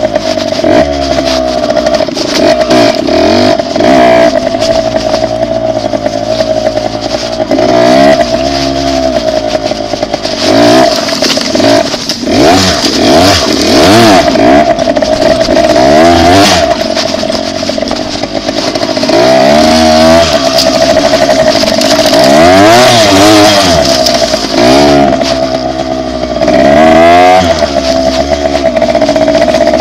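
Dirt bike engine running under way, its note rising and falling repeatedly as the throttle is opened and eased off.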